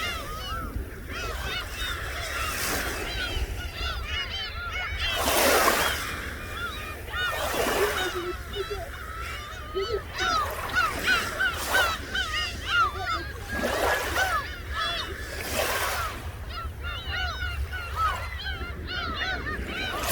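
A flock of seagulls calling constantly: many short, overlapping squawks, with a few louder whooshes of noise among them.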